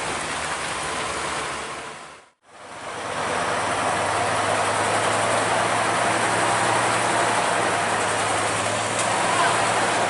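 Heavy diesel truck engine running steadily under a loud, even rushing noise. The sound fades out to silence for a moment about two seconds in, then fades back in.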